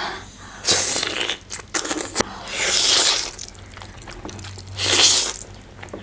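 A person eating close to the microphone: three loud bites or mouthfuls, about a second in, about three seconds in and about five seconds in, with fainter chewing between.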